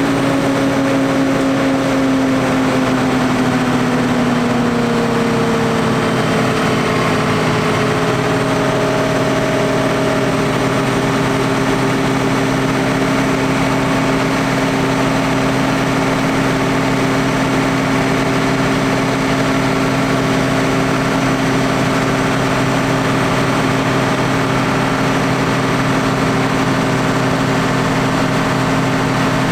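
Valtra T175 tractor's six-cylinder diesel engine running steadily during a PTO dynamometer test. Its pitch sags a little over the first few seconds, then holds level.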